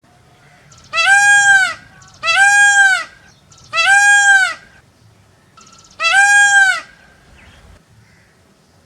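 Peacock giving four loud calls, each under a second long and arching up then down in pitch. The first three come in quick succession and the fourth follows a short pause.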